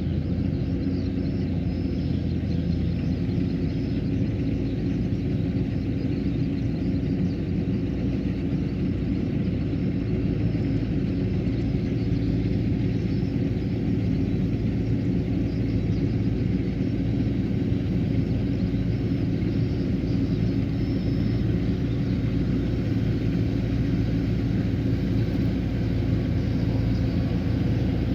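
Kubota combine harvester running steadily: a continuous low diesel engine hum with the rattle of its harvesting machinery, with no breaks or changes in level.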